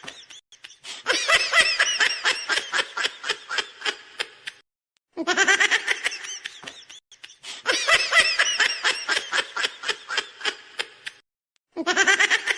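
High-pitched laughter in rapid series of short pulses. The same stretch of laughter starts over about every six and a half seconds and breaks off abruptly each time.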